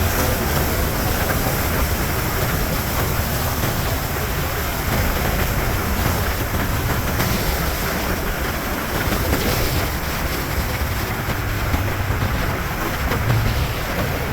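Yamaha MT-07's parallel-twin engine through a LeoVince underbody exhaust, running at a steady cruise with a low rumble, under a constant rush of wind on the microphone.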